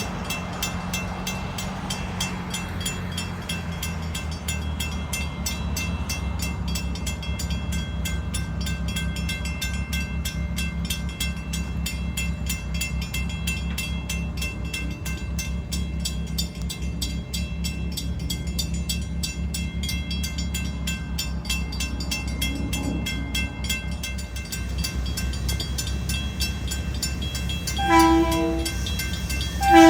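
Steady low rumble of a diesel engine, then two short blasts of a train horn near the end, the second the loudest.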